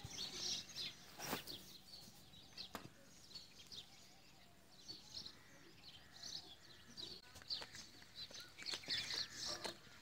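Small birds chirping in short, high, repeated notes, with two sharp clicks in the first few seconds.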